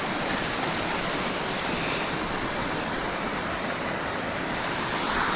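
Steady rush of flowing water from a mountain stream, growing a little louder and brighter near the end.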